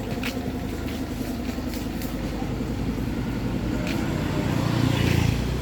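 A motor vehicle passing close by on the road amid street noise, its low rumble building to a peak about five seconds in and then fading.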